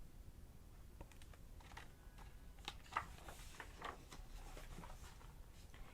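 Faint, scattered clicks and soft rustles of a picture book being handled, its pages turned and pressed flat.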